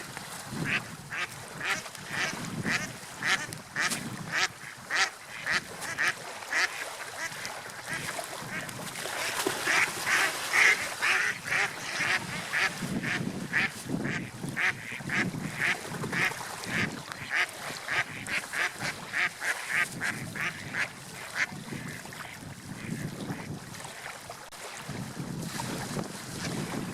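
Seagulls calling in a rapid series of short, repeated cries, about two to three a second, that die away a few seconds before the end. Beneath the calls is a low, swelling rush of surf and wind.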